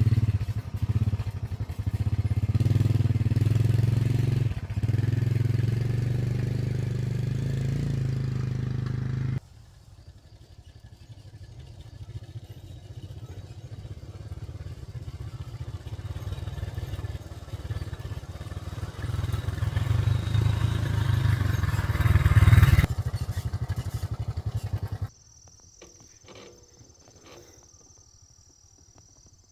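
Motorcycle engine running on the move, in several cut-together stretches, louder and with a clearer engine note in the first third. About 25 s in the engine sound drops away, leaving quiet surroundings with a faint high steady buzz.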